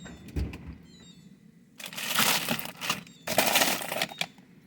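A low thump, then two loud bursts of crinkling, scraping noise about a second each, as frozen food packages are handled in the refrigerator's freezer.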